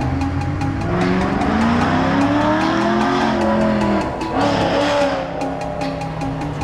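Car engine revving up and falling back, then a second, shorter rev about four and a half seconds in, heard over background music with a steady beat.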